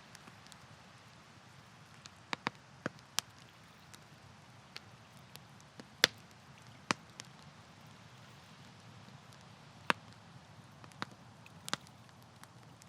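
Wood campfire crackling: irregular sharp pops and snaps, the loudest about six seconds in, over a soft steady hiss.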